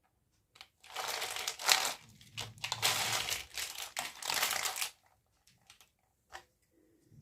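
Toy packaging crinkling as it is handled and unwrapped, in several rustling stretches over about four seconds, followed by a few light clicks.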